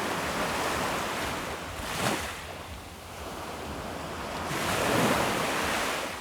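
Ocean waves washing ashore as a steady rushing surf that swells about two seconds in and again in a longer rise near the end, then fades out.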